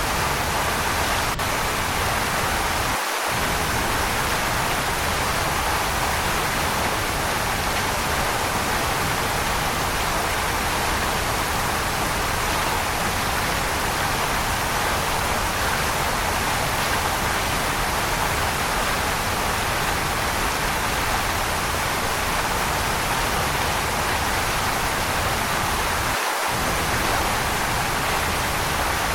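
Waterfall: a steady, even rush of falling water. The low rumble drops out for a split second twice.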